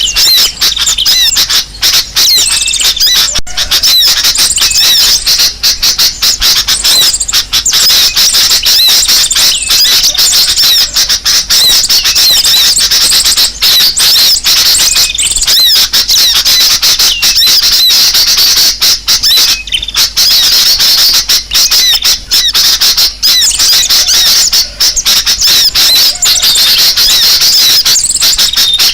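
Dense, continuous chorus of many small birds chattering and chirping at once, loud and high-pitched: an agitated, noisy flock of the kind played as a bird-trapping lure call.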